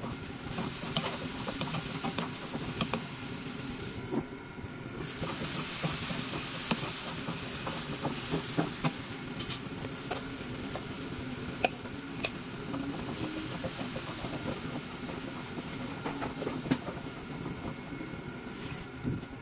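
Shallots, green chillies and curry leaves sizzling in oil in a non-stick pan, stirred with a wooden spoon that clicks and scrapes against the pan. The sizzle drops away briefly about four seconds in, then comes back louder.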